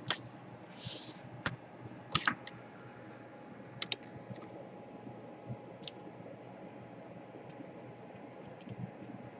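Scattered small, sharp clicks and taps, some in quick pairs, from laptop parts and tools being handled during disassembly, with one short scratchy hiss about a second in.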